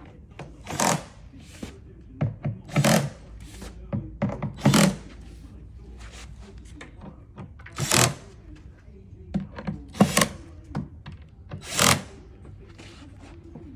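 A series of separate knocks and clatters as tools and bed-frame panels and fittings are handled and fastened during assembly.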